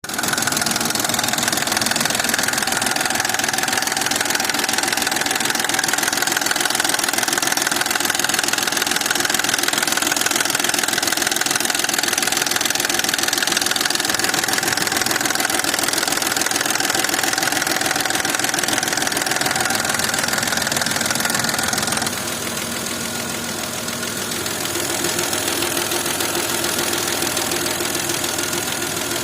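VW/Audi BDW 2.4-litre V6 engine idling with a knock, run cold. About twenty-two seconds in the sound changes abruptly to a slightly quieter run, the same engine warmed up, still knocking.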